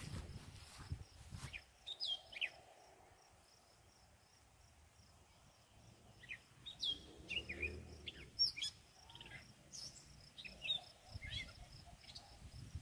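Wild birds chirping in short, scattered calls, busiest in the second half, over faint outdoor background noise, with a few soft knocks near the start.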